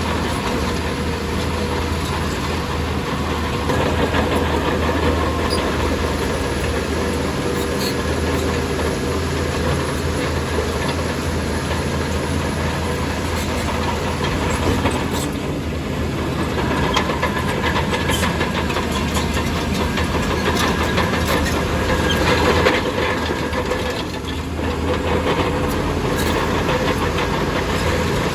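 Heavy diesel earthmoving machinery running steadily under load, with frequent metallic clanks and rattles.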